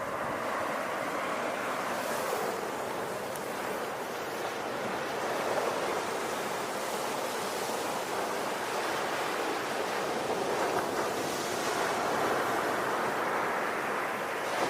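Ocean surf: waves washing in as a continuous rush of noise that swells at the start and again about two-thirds of the way through.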